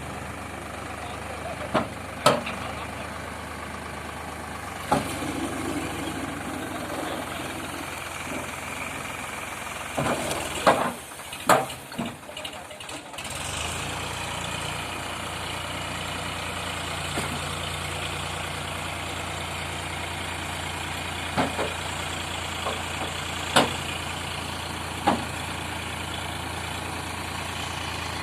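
Eicher 548 tractor's diesel engine running under load, a steady low drone broken by scattered sharp knocks. There is a burst of several loud knocks about ten to twelve seconds in, after which the engine note settles steady again.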